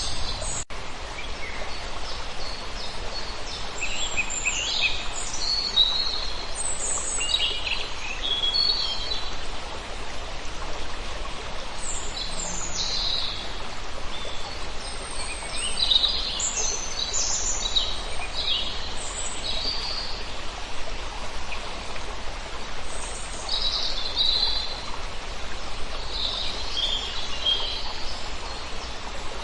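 Many birds calling, short high chirps in scattered clusters, over a steady background hiss with a low rumble.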